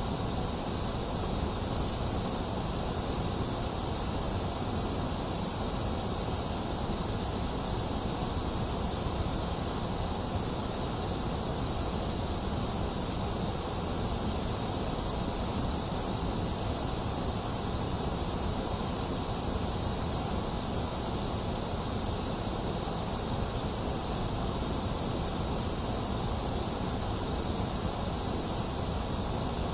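Box fan running mixed with falling rain: a steady, unchanging hiss over a low rumble.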